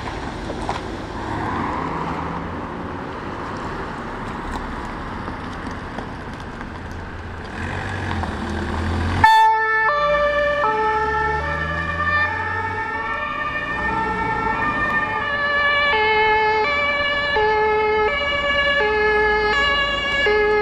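Motor vehicles running with road noise. About nine seconds in, the sound cuts abruptly to several overlapping two-tone emergency-vehicle sirens, each switching back and forth between two pitches.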